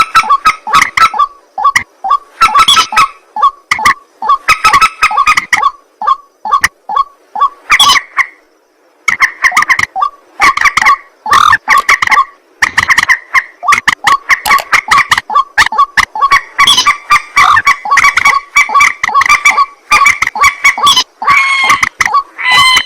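White-breasted waterhen (ruak-ruak) calling over and over: a rapid, unbroken run of loud, harsh, repeated calls, pausing briefly about eight seconds in.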